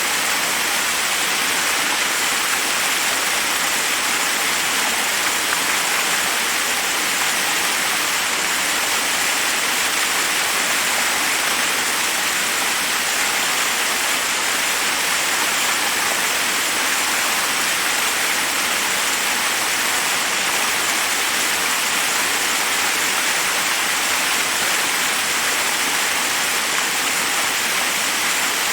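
Forest waterfall rushing over rocks, a steady, even roar of falling water.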